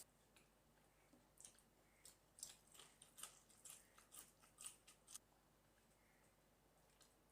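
Faint eating sounds: a run of short, crisp mouth clicks and smacks from chewing, bunched in the middle of the clip.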